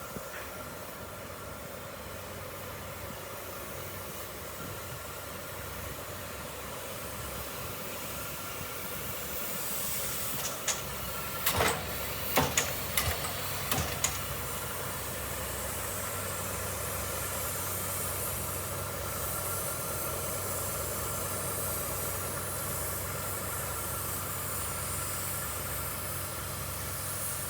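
Standing locomotives: a DE10 diesel engine idling steadily while a steam hiss from the C57 steam locomotive builds up about a third of the way in and then holds. Five or six sharp metallic knocks come in a quick cluster near the middle.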